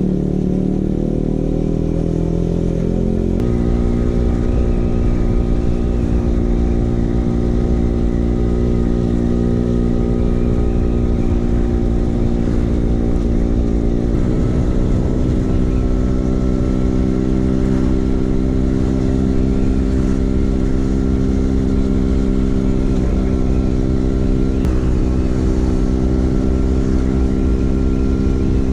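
Vespa PX 150 single-cylinder two-stroke scooter engine running through an aftermarket DRC Victory Racing exhaust while riding. The note rises at the start, then mostly holds steady, with abrupt changes in pitch a little after three seconds and about halfway.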